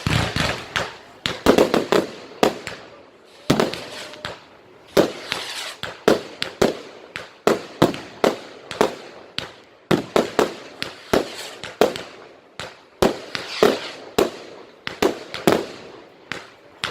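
Fireworks display: a rapid, irregular string of sharp bangs from bursting fireworks, often two or three a second, with hissing crackle around some of the bursts.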